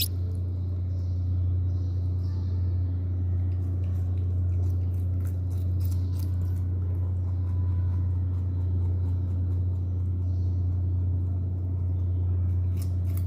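A steady low hum throughout, with a rabbit's crisp chewing clicks on cucumber coming in loose clusters in the middle and again near the end.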